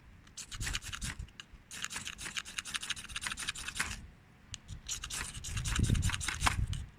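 Ferro rod (firesteel) of a Ganzo G8012 survival knife being scraped in quick repeated strokes to throw sparks onto tinder, in two spells with a short pause about four seconds in.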